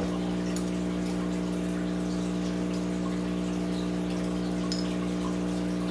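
Steady electric hum of a running aquarium pump or filter, with faint water trickling and scattered small drips.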